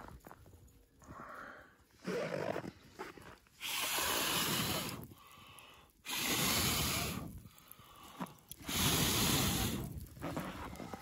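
A person's breath blown hard and close to the microphone: three long breathy blows, each about a second and a half, a couple of seconds apart, with fainter breaths before them.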